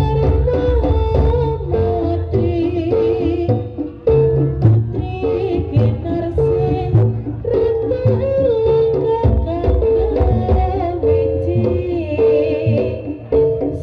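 Live jaranan (Javanese hobby-horse dance) music: hand drums beating a busy rhythm under a repeating, held melody line.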